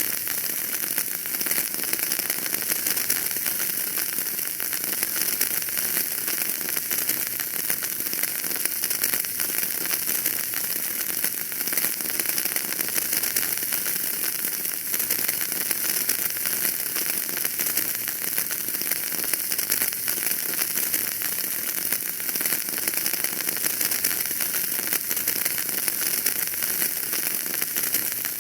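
Wood fire in a fireplace crackling, a dense, even stream of small pops and hiss with no single loud crack standing out.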